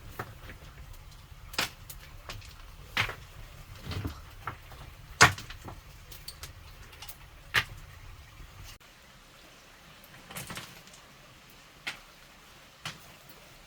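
Irregular sharp knocks or clacks, about eight of them a second or two apart, the loudest about five seconds in, over a low rumble that stops abruptly about nine seconds in.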